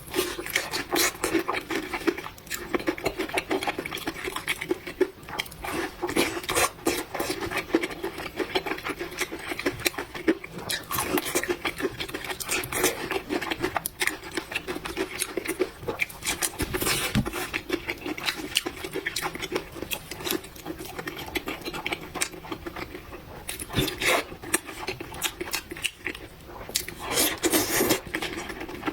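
Close-miked eating sounds: chewing of spicy noodles and fried tendon, with many small wet clicks and occasional clinks of utensils against a bowl.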